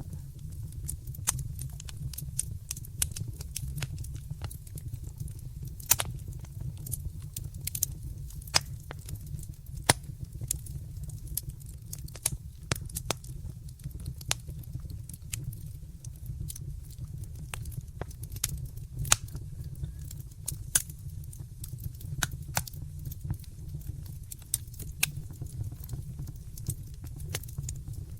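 Wood fire crackling in a fireplace: sharp, irregular pops and snaps, a few louder than the rest, over a steady low rumble of the flames.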